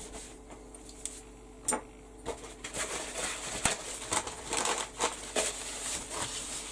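A craft stencil being wiped clean by hand: irregular rubbing and crinkling with small clicks and taps, sparse at first and busier from a couple of seconds in.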